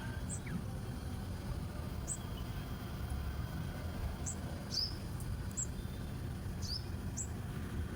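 Small birds chirping: short, high single chirps every second or two, two of them sliding downward, over a steady low background rumble.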